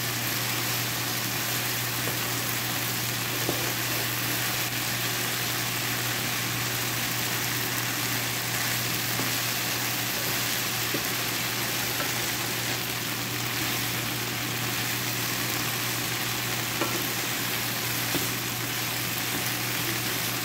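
Okra, onion and garlic sizzling steadily in a nonstick frying pan as they are stir-fried, with a few faint clicks of the wooden spatula against the pan. A steady low hum runs underneath.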